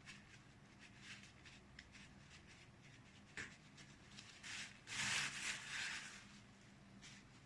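Paintbrush rubbing and scrubbing on watercolour paper in short, faint strokes, with one louder, longer scratchy stroke a little past the middle.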